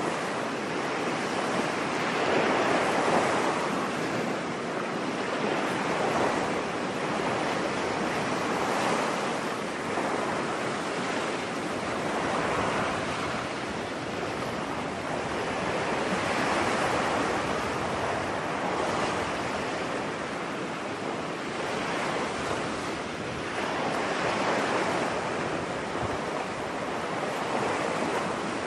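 Ocean surf washing onto a beach: a steady rush of water that swells and eases every three to four seconds.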